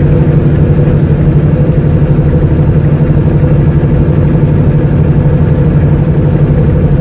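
Semi-truck's diesel engine running steadily as a low, even drone.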